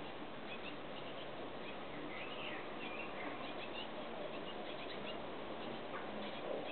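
Small garden birds chirping and twittering in short, high calls, a cluster of them a couple of seconds in, over a steady background hiss.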